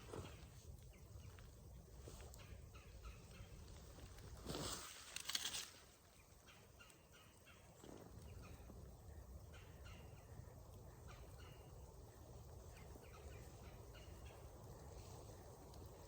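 Quiet outdoor ambience with faint, short ticks or chirps scattered throughout, and a brief louder rustle about four and a half seconds in.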